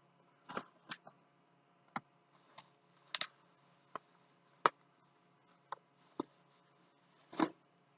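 Scattered clicks and light knocks, about eleven in all, from a handheld car vacuum and its attachments being handled and set down.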